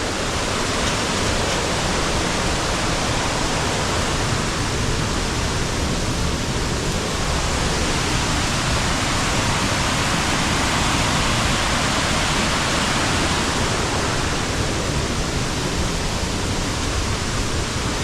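Waterfall in strong flow: a steady, even rush of falling water.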